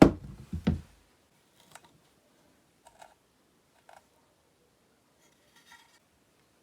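A heavy thump, then a second knock under a second later, as objects are set down or handled. A few faint light clicks and taps follow at wide intervals.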